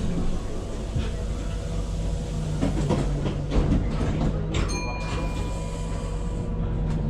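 Tyne & Wear Metro train running, with a steady low hum. A cluster of sharp clatters comes about three to four seconds in, and a brief ringing tone follows just before five seconds.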